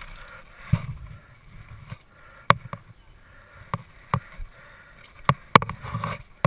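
A series of sharp, irregularly spaced clicks and knocks, about a dozen in all, over a low rumble.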